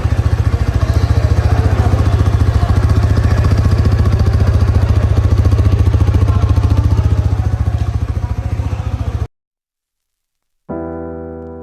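Hero 160R 4V motorcycle's single-cylinder engine idling, with a steady, rapid exhaust pulse; it cuts off abruptly about nine seconds in. After a second and a half of silence, piano music starts near the end.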